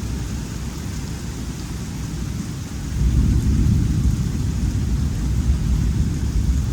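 Thunderstorm: a deep, ragged rumble of thunder over the steady hiss of rain. The rumble swells louder about three seconds in.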